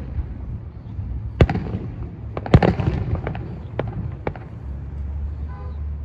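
Aerial fireworks shells bursting: two sharp bangs about a second apart, the second the loudest, followed by crackling and a few smaller pops.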